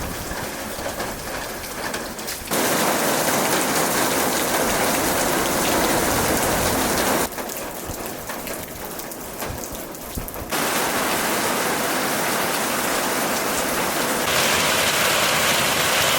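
Heavy hurricane rain pouring down in a dense, even hiss. The level jumps abruptly between quieter and louder stretches four times, about 2.5, 7, 10.5 and 14 seconds in.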